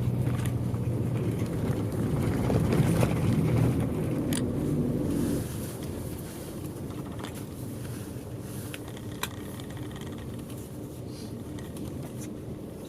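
Bus engine and road noise heard from inside the cabin while the bus drives. It is louder for about the first five seconds, then drops to a lower, steady level.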